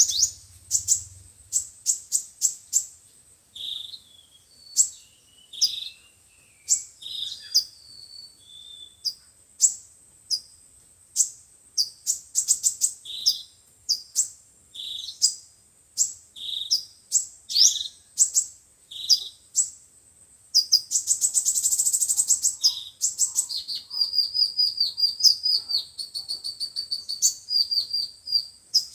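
Sunbirds calling: sharp, high chirps and short twittering notes in quick succession, with a dense trill about two-thirds of the way through and a run of rapidly repeated notes near the end.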